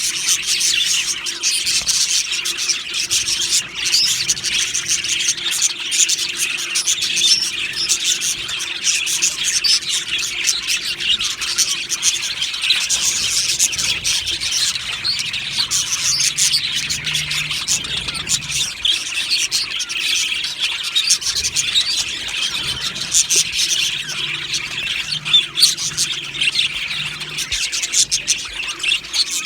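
A flock of budgerigars chattering and chirping continuously, many voices overlapping.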